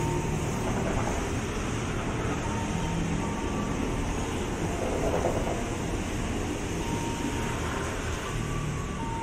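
KRL Commuter Line electric commuter train passing alongside the platform: a steady rumble of the cars rolling over the rails, with a faint hum from the running gear.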